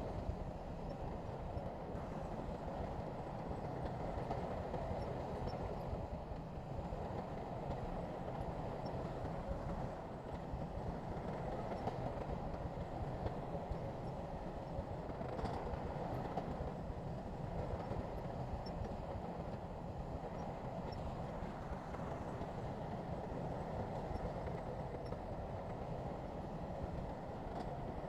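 Crawler bulldozer's diesel engine running steadily while working, with a constant rattle from its steel tracks.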